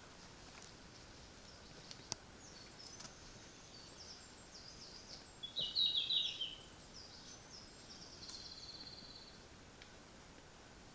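Red-flanked bluetail singing: one short, loud warbling phrase about halfway through, with fainter high bird song and a brief trill around it.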